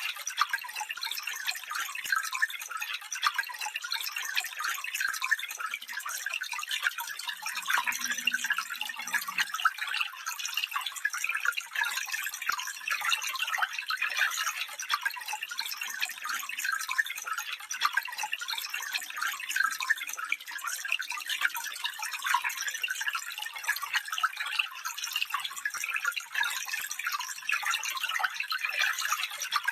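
Shallow stream water trickling and splashing over stones, a steady bright babble of many small rapid splashes with little low rumble.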